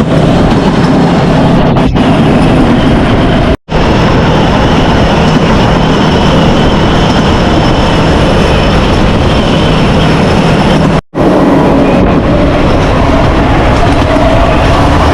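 Motorbike-powered rail cart running along the railway track: a loud, steady mix of the motorcycle engine and wheels on the rails. The sound cuts out abruptly twice, about 3.5 and 11 seconds in.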